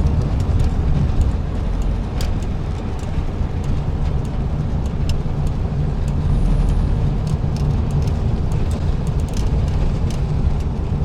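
A VW Beetle's air-cooled 1600 flat-four engine running steadily under load in fourth gear, heard from inside the car with road noise and a few light rattling clicks.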